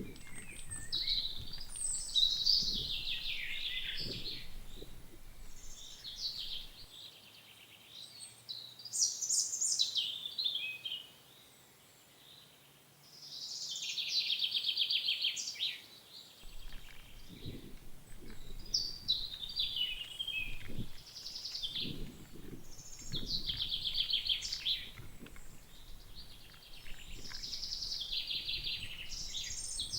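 Songbirds singing in short, repeated chirping phrases, with a quieter gap about a third of the way in. Soft, low knocks come now and then underneath.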